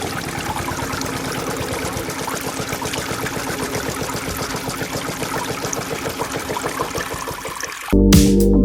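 A small motor-driven mini water pump running steadily, with water pouring and trickling. Electronic music cuts in near the end.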